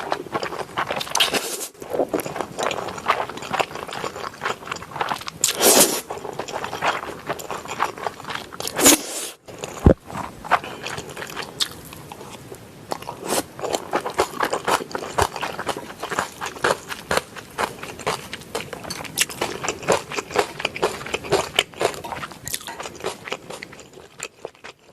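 Close-miked eating sounds of a person chewing curry-and-cheese instant noodles: a dense, irregular run of wet clicks and crunches, with a few louder sounds in the first ten seconds.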